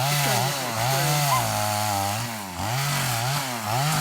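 Chainsaw running at high revs while bucking a felled tree into sections. The engine's pitch drops and recovers several times as the chain bogs under the load of the cut.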